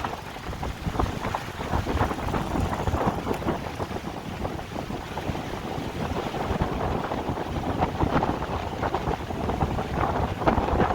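Strong storm wind buffeting the microphone in gusts, over the noise of rough sea surf.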